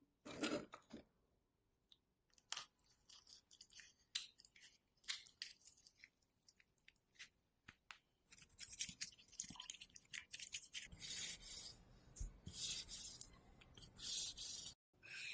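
Kitchen food-preparation sounds, faint and close: scattered clicks and taps of handling, then from about eight seconds in a run of short scraping or scrubbing strokes.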